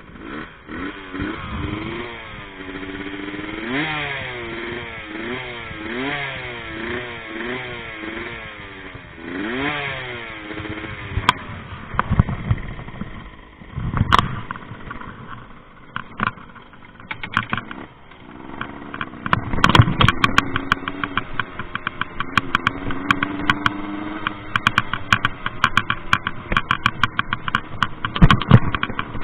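Rieju MRT two-stroke moped engine revving up and down in quick repeated pulls, about one a second, then running lower. From about two-thirds of the way through, a dense rapid clatter of sharp knocks and rattles sounds over the steadier engine.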